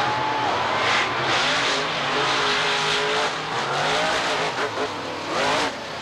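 Two monster trucks racing side by side, their engines running at full throttle with the pitch climbing and falling as they rev through the run.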